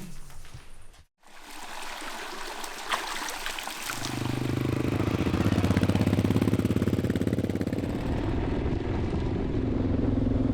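Motorcycle engine running steadily while riding; it comes in about four seconds in, after a short stretch of rushing, wind-like noise.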